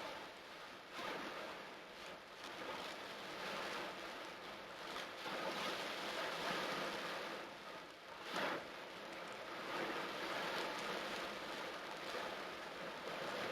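Torrential rain pouring down in a steady rushing hiss that swells and eases, with a brief louder surge about eight seconds in.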